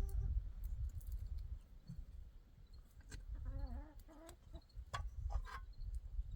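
A farm animal calling briefly with a wavering pitch about halfway through, over a low rumble and scattered clicks and knocks.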